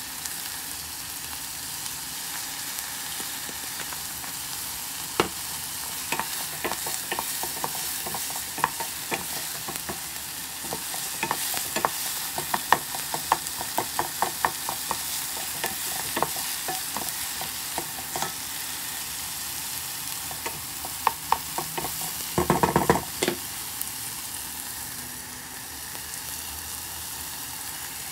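Diced tomatoes and onions sizzling in oil in a white enamel pot, with a steady high hiss, while a wooden spoon stirs them and knocks and scrapes against the pot many times. A quick flurry of knocks comes about three-quarters of the way through.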